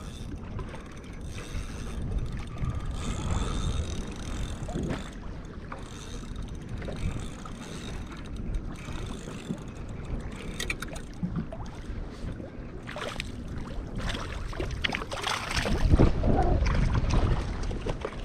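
Wind on the microphone and water moving around a kayak, with scattered knocks and handling noises, and a louder gust of wind a little before the end.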